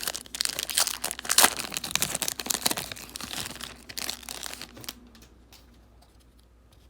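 Wrapper of a trading card pack crinkling and tearing as it is opened, a dense run of crackles that stops about five seconds in.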